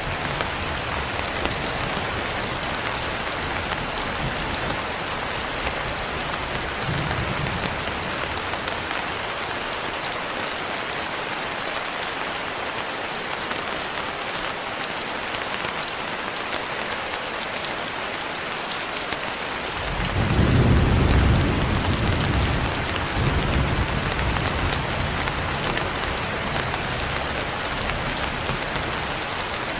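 Steady rain falling, with low thunder rumbling at intervals. About two-thirds of the way in comes a louder peal of thunder that slowly fades back under the rain.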